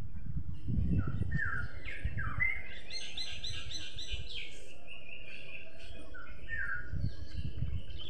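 Songbirds singing and calling: short falling whistled notes, and about three seconds in a quick run of high chirps, over a steady low background rumble.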